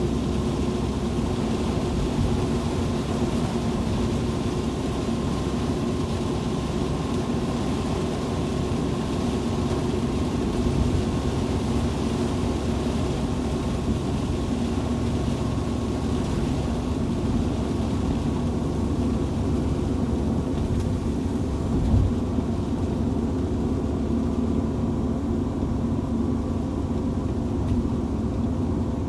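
Steady rumble of a vehicle driving on a highway in heavy rain: road and engine drone with a low hum, under a rain hiss that thins out in the second half. A brief bump about 22 seconds in.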